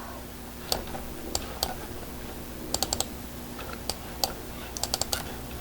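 Computer keyboard keys being tapped: scattered single clicks and quick runs of two or three at irregular intervals, over a faint steady hum.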